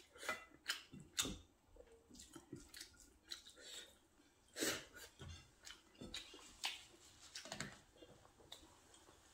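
A man chewing a mouthful of rice and pork curry eaten by hand, with irregular short smacks and clicks, about two a second.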